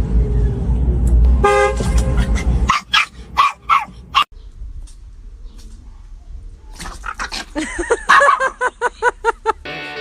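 Dogs barking: a few short barks about three seconds in, then a quick run of about a dozen barks from about seven seconds in until near the end. Before the barking there is a loud low rumble with a brief steady horn-like tone about one and a half seconds in.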